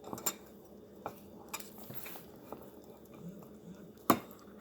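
Dishes and cutlery being handled: a few light clicks and knocks, the sharpest about four seconds in.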